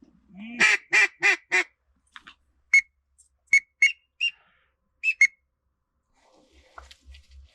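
Four loud duck quacks in quick succession, then a scattered series of short, high whistled peeps.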